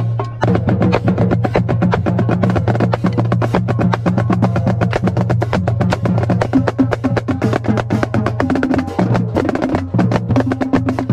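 Marching drumline playing a fast cadence, with rapid snare drum strokes and rolls mixed with deeper drum hits, over a steady low hum.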